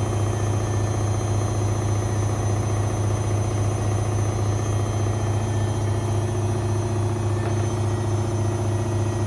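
Privileg 5020 front-loading washing machine running steadily with a constant low hum through an Easy-Care 40°C cycle.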